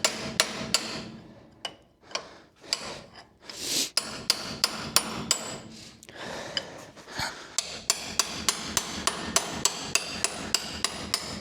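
Hammer blows on the steel parts of a monster truck's rear axle, knocking a stuck part loose during a differential swap. The blows are irregular at first, then settle into a steady run of about three or four a second in the second half.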